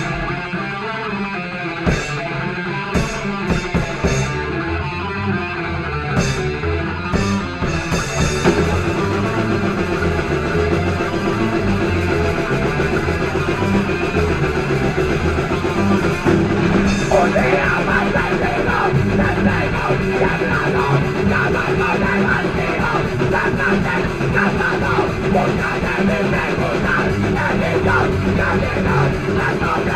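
Heavy rock / metal band playing an instrumental passage: guitar with sharp cymbal hits at first, then the full band comes in about eight seconds in, and a higher melodic line enters around seventeen seconds.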